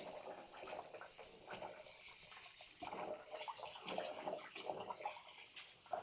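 Water splashing and trickling irregularly in a kitchen, in uneven swishes.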